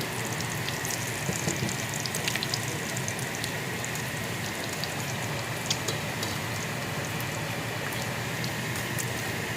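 Bacon frying in a pan: a steady sizzle with scattered small pops and crackles.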